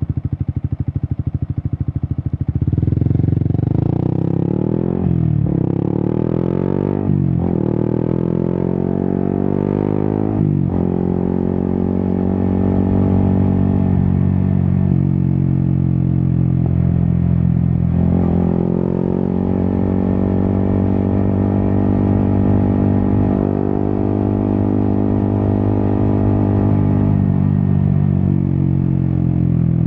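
Yamaha XSR 155's single-cylinder engine through an Akrapovic exhaust, running low at first, then revving up through several quick gear changes about two to ten seconds in. After that it holds a steady cruise, with one brief dip in revs near the middle.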